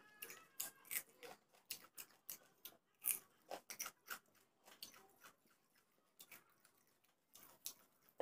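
Close-up chewing and crunching of food eaten by hand: a run of sharp, irregular crunches, several a second, with quieter wet chewing between them.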